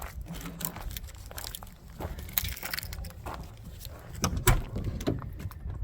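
Footsteps and scattered knocks and clicks of handling, with the sharpest knock about four and a half seconds in.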